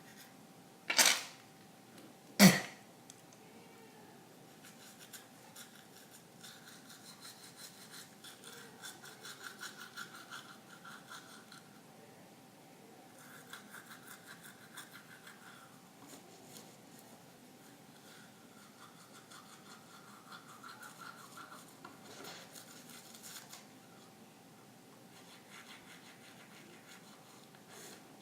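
Two sharp knocks near the start, then a toothbrush scrubbing teeth in faint, rapid, scratchy strokes, with short pauses.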